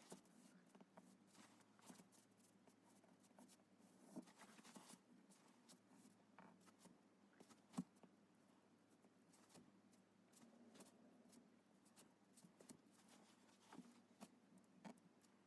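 Faint scratching and scattered light taps of a drawing implement moving on paper, with one sharper tap about halfway through.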